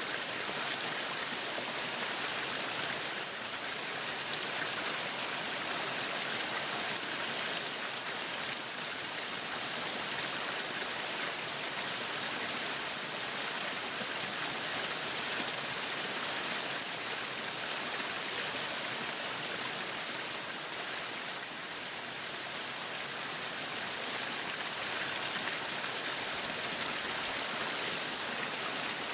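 Meat sizzling on a yakiniku grill: a steady, dense hiss.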